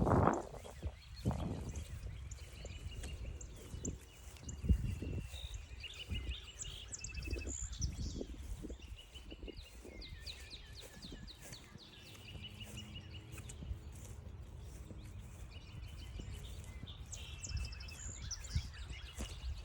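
Many small calls and chirps in repeated short series, over footsteps on the trail with scattered soft thumps.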